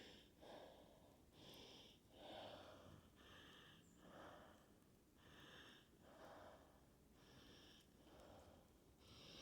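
Near silence, with faint, soft, regular sounds about once a second.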